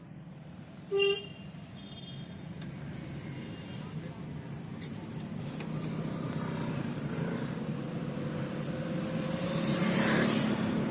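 A short car horn toot about a second in, over steady car engine and road noise that slowly builds, the engine note rising gradually as the car picks up speed, with a rush of noise near the end.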